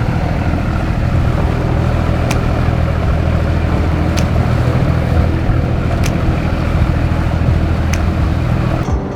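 A passenger boat's engine running steadily with a low drone. A light click sounds about every two seconds.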